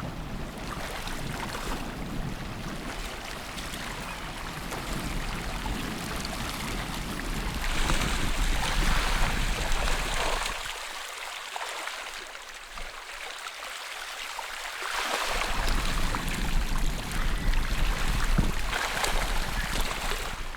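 Rushing, splashing river water, a steady noise that swells louder twice, about a third of the way in and again near the end.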